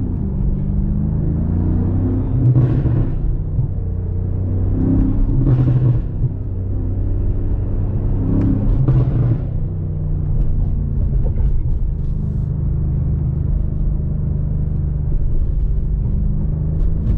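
BMW M5 Competition's 4.4-litre twin-turbo V8 running at low revs while driving. Its pitch falls right at the start, and it surges louder briefly about every three seconds in the first half.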